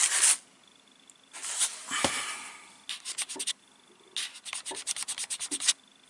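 Quick back-and-forth rubbing strokes, like a cloth wiping a surface close to the microphone, in several bursts of about nine strokes a second with short pauses between them.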